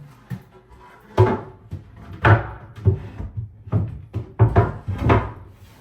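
A wooden vanity cabinet being shifted and bumped into position: a run of about eight irregular knocks and thumps.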